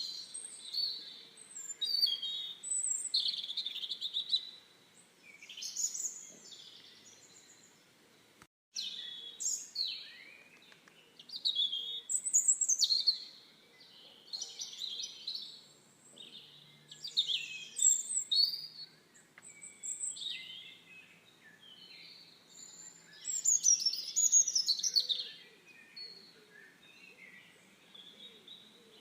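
Songbirds singing and calling, many short chirps and warbled phrases overlapping. The sound cuts out for a moment just before nine seconds in.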